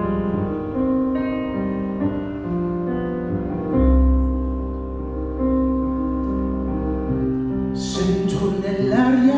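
Live piano and violin playing a slow, tender instrumental passage of held notes over a deep bass note; a voice comes in near the end.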